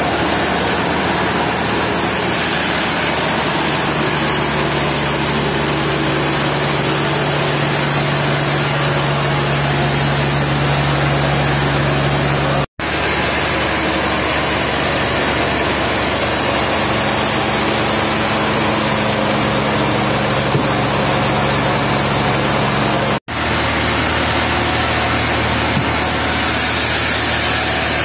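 Sawmill machinery running, a steady engine-like hum with a faint sawing noise under it. The sound cuts out abruptly for an instant twice, and the hum's pitch shifts after each break.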